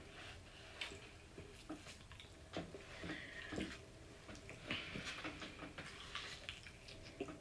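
Faint eating sounds: scattered light clicks and taps of utensils and takeout containers, with soft mouth sounds.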